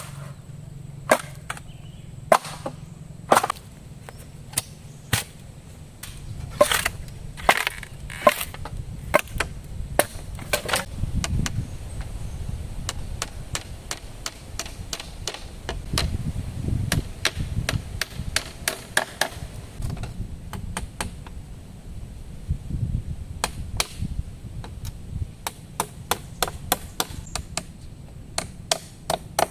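Repeated chopping strikes of a blade into wood. They come irregularly, about one a second at first and quickening to several a second near the end, over a low rumble that swells and fades.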